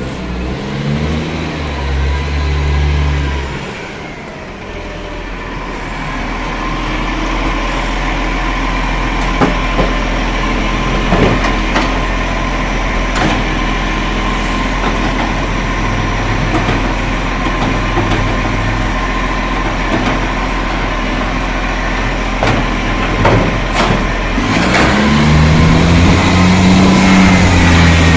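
Garbage truck's diesel engine running, revving up near the start and again near the end, with a steady whine and a few sharp knocks in between.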